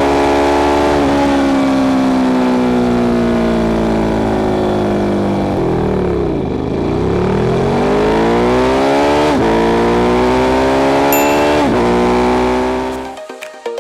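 Ducati Streetfighter 848's 90-degree L-twin engine under way. It eases off and slows about midway, then accelerates hard with two quick upshifts near the end.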